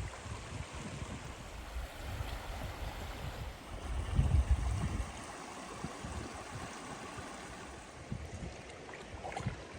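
Kennebec River water running and lapping in a steady rush, with a brief louder low rumble about four seconds in.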